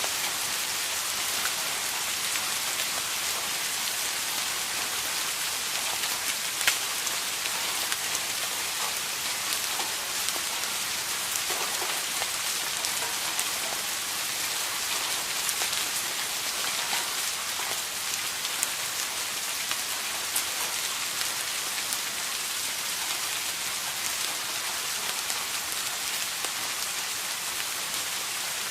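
Steady rain falling on a surface: an even hiss of rain with individual drops ticking sharply here and there, one louder drop about seven seconds in.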